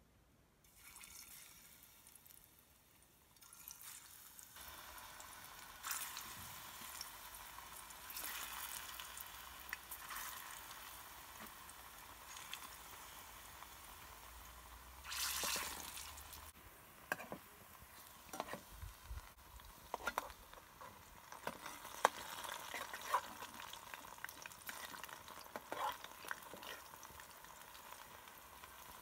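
Ripe plantain slices sizzling in hot oil in a frying pan, a steady hiss that begins about a second in and grows louder a few seconds later, with a louder surge about halfway. In the second half there are sharp clicks and scrapes from a metal spoon turning the slices in the pan.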